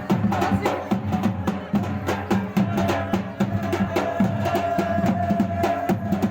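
Drums beaten in a fast, dense rhythm with other percussion, and a held note joining from about halfway through until near the end.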